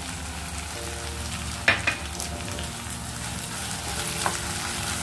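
Tomato-onion masala sizzling steadily in a nonstick kadai as a wooden spatula stirs it, with a sharp knock about a second and a half in and a lighter one near the end.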